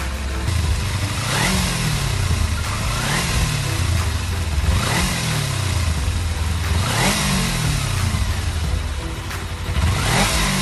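Kawasaki Z250 motorcycle engine idling and being blipped about five times, each rev rising and falling back, roughly every two seconds, while the engine is run through a carbon-cleaning flush.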